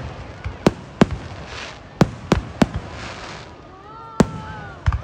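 Aerial fireworks bursting overhead: irregular sharp bangs, about eight in five seconds, several coming in quick succession.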